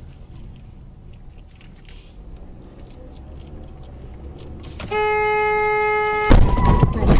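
Car driving with low engine and road noise, then a car horn sounds one steady tone for about a second and a half. The horn is cut off by a sudden loud crash, the impact of a collision.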